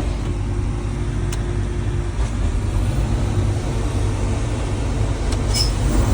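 Heavy diesel machinery engine running steadily at a low rumble, with a steady tone in it that drops away about two seconds in.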